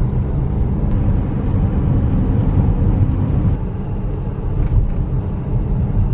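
Car driving: a steady low rumble of engine and road noise heard from inside the cabin.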